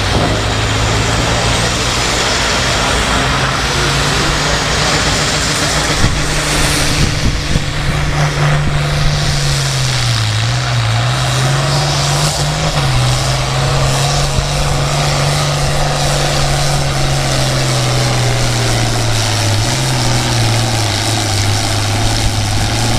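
International Harvester 966 pulling tractor's diesel engine running hard under load as it drags the pulling sled. Its pitch sags and recovers a few times as the load comes on.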